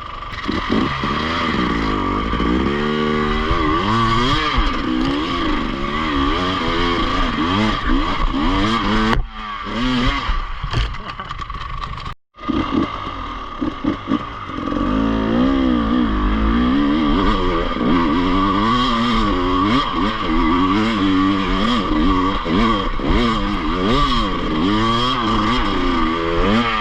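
Enduro motorcycle engine being ridden, its revs rising and falling over and over as the throttle is worked, with some clatter. The sound cuts out for a moment about twelve seconds in.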